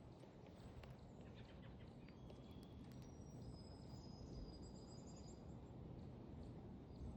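Faint songbird calls: a few thin, high whistled notes, one held for about two seconds, and a quick trill of short notes about four seconds in, over a low steady background rumble.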